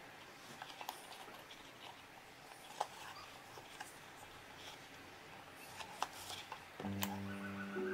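Faint scattered clicks and light taps of small objects being handled, then background music with held notes coming in near the end.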